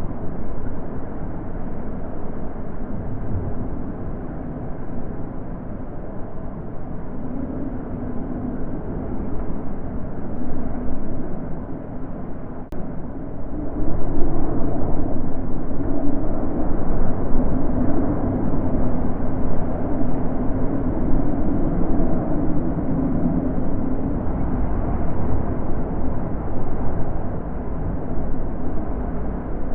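Wind blowing in gusts: a continuous rushing with a low, wavering moan, swelling louder about halfway through.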